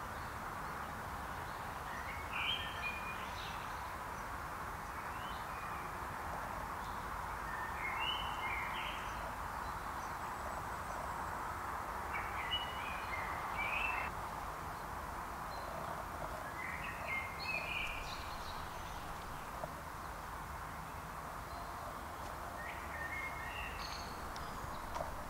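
A songbird singing short phrases, one every four or five seconds, over a steady background hiss of the woods.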